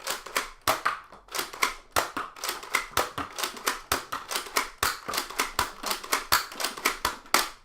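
Nerf Brainsaw toy blaster being worked and fired over and over: a fast, even run of sharp plastic clicks, about three or four a second.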